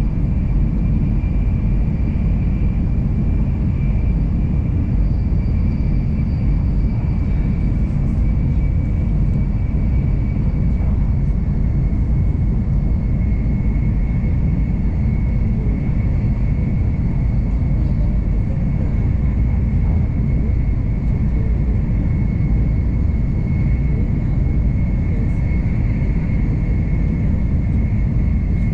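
N700 series Shinkansen running at speed, heard from inside the passenger cabin: a steady low rumble with a faint high whine that drops slightly in pitch about halfway through.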